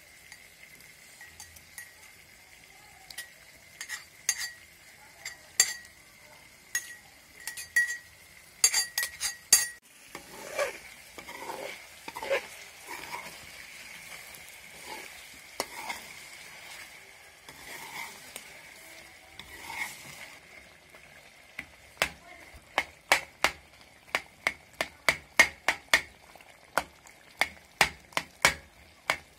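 Chicken pieces and tomatoes sizzling in hot oil in an aluminium pot, while a metal spoon stirs, scrapes and clinks against the pot. In the last few seconds the spoon knocks against the pot quickly, about three strikes a second.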